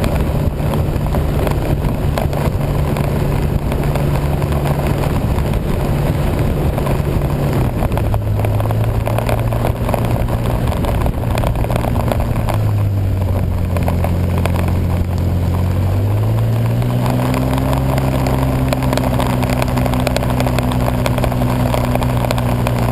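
Vehicle engine running steadily while under way over a constant rush of noise. Its pitch steps down about a third of the way in, drops again near the middle, then rises and holds steady.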